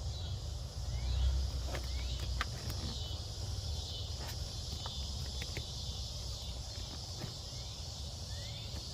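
Steady high-pitched chirring of crickets, with scattered small clicks and knocks of hands working a heater hose fitting onto the water pump, over a low rumble that swells about a second in.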